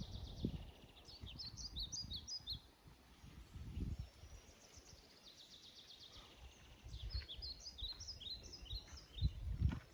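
A songbird singing two short bouts of quick, high chirping notes, over a low rumbling background noise.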